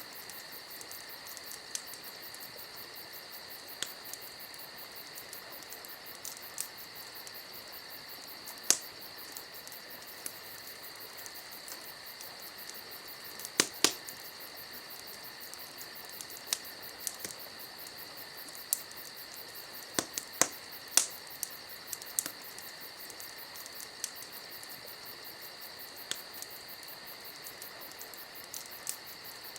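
Campfire crackling, with irregular sharp pops of burning wood, a couple of them much louder than the rest. Underneath runs a steady, high-pitched chirring of crickets.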